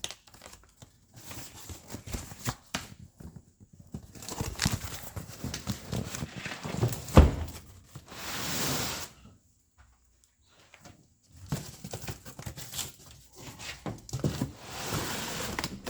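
Cardboard parts box and its packing being handled: packing material rustling and tearing, with scattered knocks as parts are moved and set down, one sharp knock about seven seconds in.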